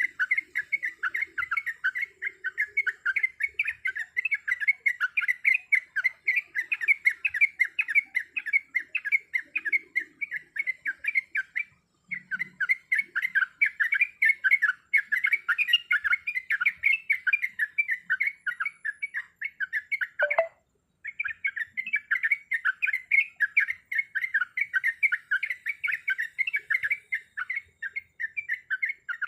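Yellow-vented bulbul (trucuk) chattering in a rapid run of short notes, several a second, broken off briefly about twelve and twenty seconds in.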